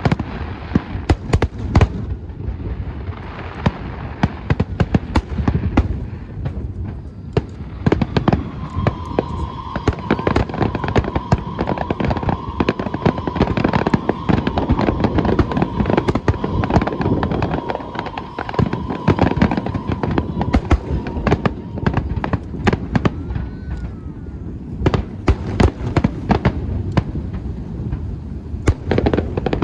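Aerial fireworks going off in a dense, continuous barrage: rapid cracks and bangs over a low rumble. A steady whistling tone runs through the middle of the barrage, and the bursts thin out briefly near the end.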